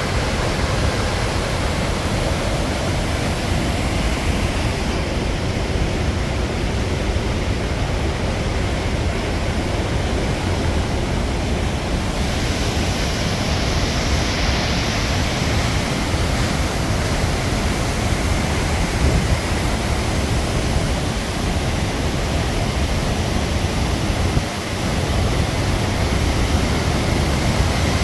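Krimml Waterfalls: the steady, dense rush of a large waterfall, heavy in the low end, with a brief dip in level about three quarters of the way through.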